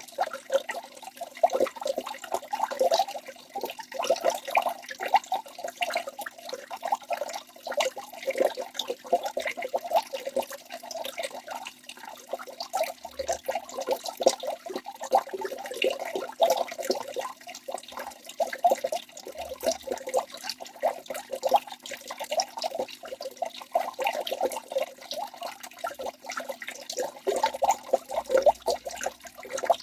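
Waterfall water splashing steadily, a dense run of small splashes and drips with no pause.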